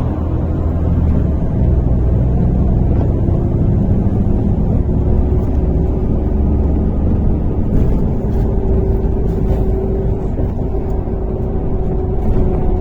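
Interior noise of a MAZ-103.485 city bus on the move: a steady engine and road rumble, with a faint held whine in the middle and a few light rattles in the second half.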